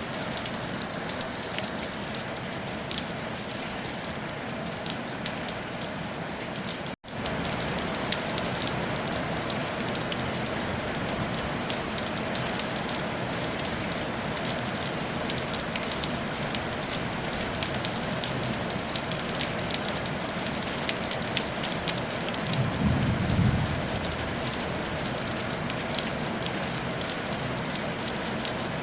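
Steady rain falling on a roof, a dense even hiss with fine ticks of individual drops. The sound cuts out for an instant about seven seconds in, then carries on slightly louder. A short low rumble rises and fades about two-thirds of the way through.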